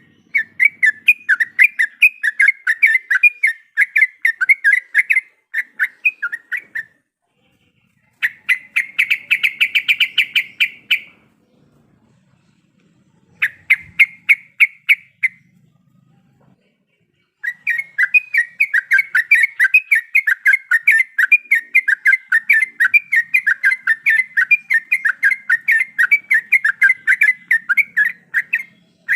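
Yellow-vented bulbul singing in long runs of rapid, chattering notes, broken by three short pauses.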